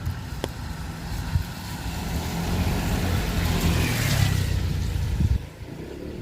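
A car passing on a wet road: its tyre hiss swells to a peak and fades. Underneath is a low rumble of wind on the microphone that cuts off suddenly near the end.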